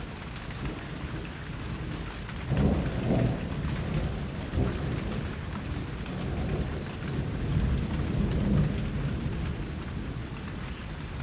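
Steady rain with low rolls of thunder rumbling under it, swelling about two and a half seconds in and again around eight seconds.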